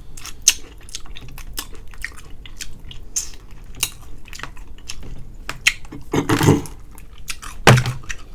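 Close-up chewing and crunching of extra-crispy fried chicken wings, with many small wet clicks and smacks. Two louder bursts come a little after six seconds in and again near the end.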